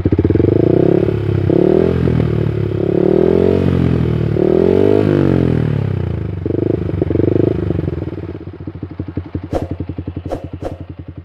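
Yamaha R15 V3's single-cylinder engine through a Proliner Pro SV full-system exhaust, revved in a series of blips that rise and fall, then settling back to a pulsing idle for the last few seconds. A few sharp clicks near the end.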